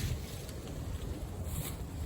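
Wind buffeting the microphone: a steady low rumble, with a brief faint rustle about one and a half seconds in.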